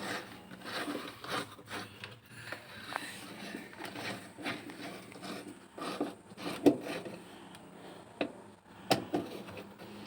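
Handling noises from working on an LG automatic single-tub washing machine while a screw is undone: irregular light scraping, rubbing and small clicks of a tool and plastic parts, with a few sharper clicks in the second half.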